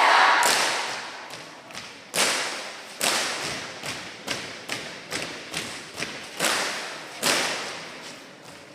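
Drill team striking in unison during a marching-drill routine: a string of about a dozen sharp thuds, irregularly spaced, each trailing off briefly. The loudest fall about two, three and seven seconds in.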